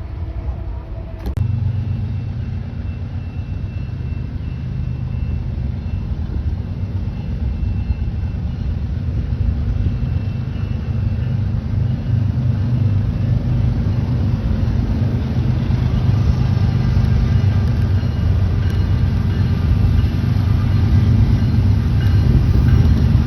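Diesel locomotive engine rumbling, starting abruptly about a second in and growing steadily louder as the train approaches.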